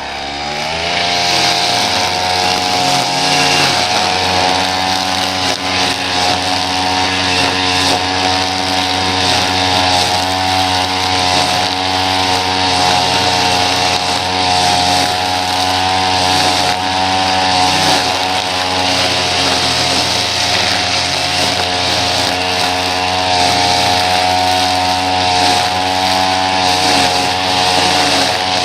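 Small petrol engine of lawn-care equipment revving up in the first second, then running steadily at high speed.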